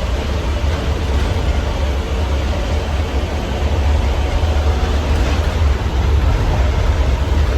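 Steady deep rumble of a city bus driving, heard from inside, with an even hiss of road and engine noise over it.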